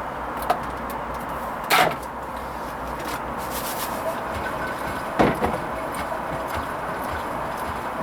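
Hoover Vision HVP16 washing machine partway through a Silks 30 wash cycle: a steady wash noise from the drum, with a few short knocks, the loudest about two seconds in and again about five seconds in.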